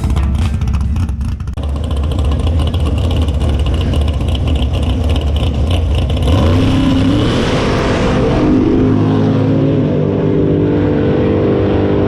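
Drag race car engine running loud, then about six seconds in rising sharply in pitch as the car launches, the engine note climbing steadily as it accelerates down the strip.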